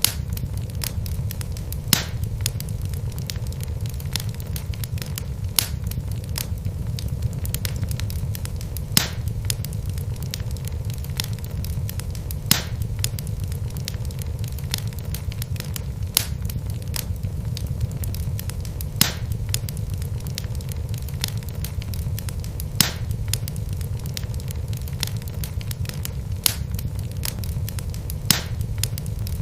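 Wood logs burning in a fireplace: a steady low rumble of flame with many small crackles, and a sharp pop from the burning wood every three to four seconds.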